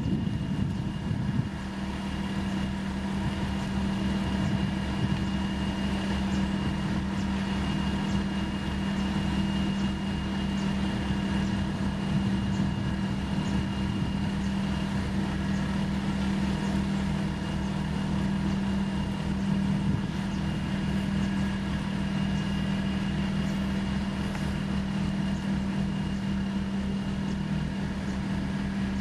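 Heavy diesel construction machinery running steadily, a deep engine hum with a fast low pulsing and a faint high whine.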